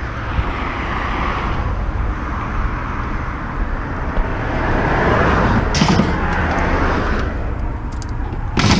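Vehicle running with steady engine and road noise, with a couple of short knocks, one about six seconds in and one near the end.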